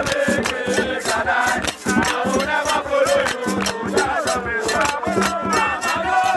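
A crowd singing and shouting together over a steady percussive beat.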